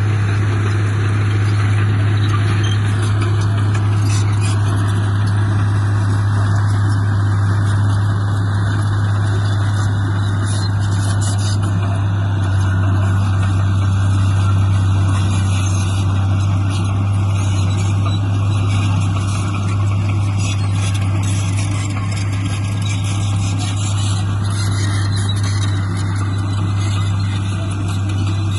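Heavy construction-machine diesel engine running steadily with a deep, even drone.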